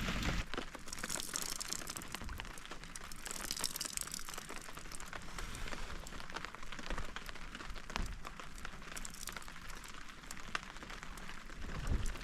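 Steady rain falling on a surface, many separate drops tapping through a constant hiss.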